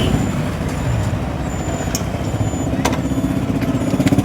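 Motorcycle engine running with a steady, rapid pulsing rumble, and two short clicks in the middle.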